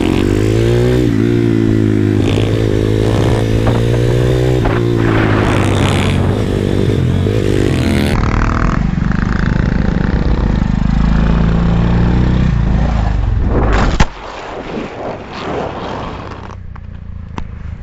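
Pit bike engine running hard, its pitch rising and falling as it revs and shifts through gears. About 14 seconds in the engine sound cuts off at a sharp click, leaving only quieter scattered ticks and scrapes.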